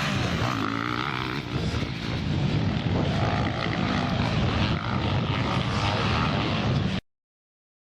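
Motocross bikes' engines racing, their pitch rising and falling as the riders rev and change gear. The sound cuts off abruptly about seven seconds in.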